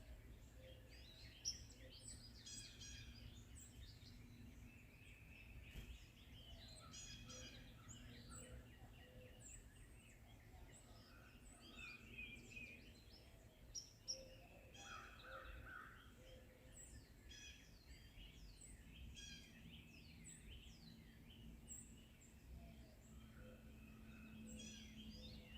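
Faint chorus of several forest songbirds chirping and trilling, many short overlapping calls, over a steady low background rumble.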